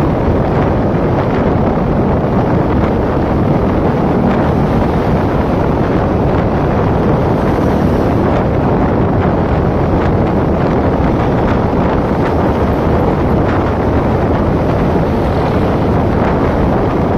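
Steady wind rush on the microphone of a motorcycle under way, with road noise beneath.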